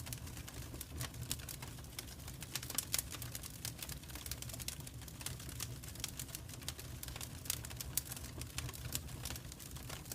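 Wood fire crackling in a fireplace: irregular sharp crackles and pops over a steady low rumble.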